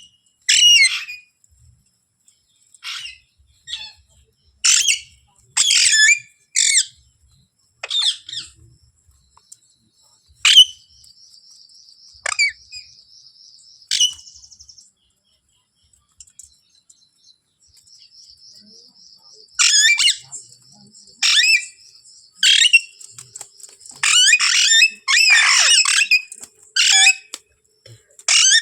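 Pet ringneck parrot giving short, sharp squawking calls, one after another. They come in two runs, the second denser, with a few quiet seconds between them and a faint high trill in the quieter stretches.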